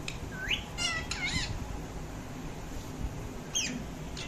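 Pet parrot giving short squawking calls: a rising whistle-like note, then a quick cluster of sliding squawks, and one more short call near the end.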